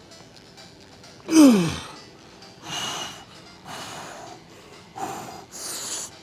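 A man's strained groan of effort that slides down in pitch, then four hard, hissing exhales spaced about a second apart as he pushes through a set of dumbbell repetitions.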